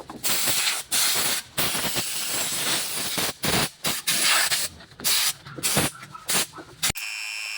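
Compressed air hissing in repeated bursts of varying length, with short gaps between them. Near the end it cuts off sharply, and a steady high-pitched tone takes over.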